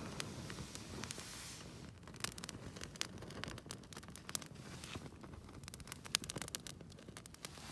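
Rustling and handling noise with many scattered sharp clicks, busier from about two seconds in.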